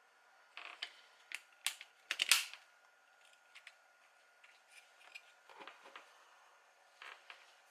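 Irregular sharp clicks and snaps of small plastic parts being handled, a quick cluster with the loudest snap about two seconds in, then a few fainter ticks.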